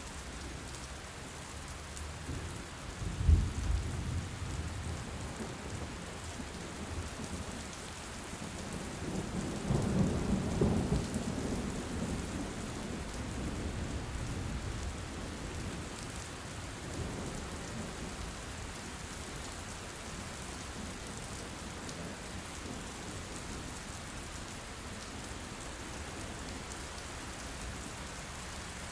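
Steady rain falling, with thunder: a sharp clap about three seconds in, then a longer low rumble around ten seconds in that fades away.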